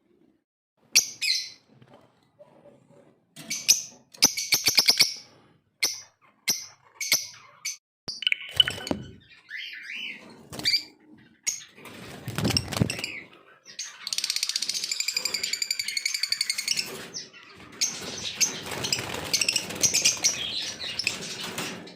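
Lovebirds calling: sharp, shrill single chirps, then in the second half long runs of rapid, high-pitched chattering. A low, muffled rustle or thud comes about midway.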